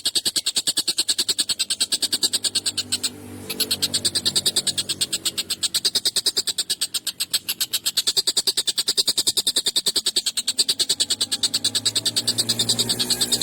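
Tengkek buto bird calling in a fast, harsh, rattling chatter of sharp notes, about a dozen a second. The chatter breaks off briefly about three seconds in.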